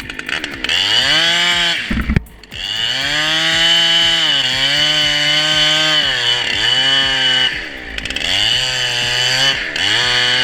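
Two-stroke chainsaw running at high revs while cutting. Its pitch sags several times as it loads up in the wood and climbs back, with a brief drop about two seconds in.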